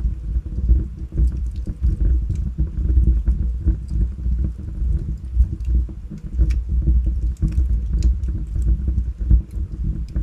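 Wood fire burning in a fireplace: a steady low rumble of the flames with frequent, irregular sharp crackles and pops from the logs.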